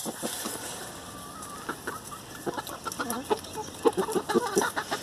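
Hamburg chickens clucking: a few scattered calls, then a quick run of short clucks from about halfway through.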